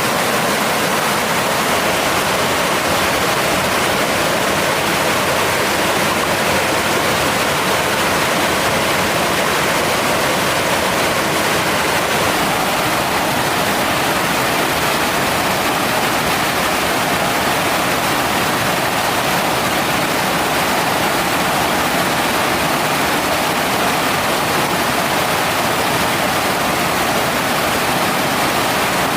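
Mountain stream water rushing steadily, an even unbroken hiss.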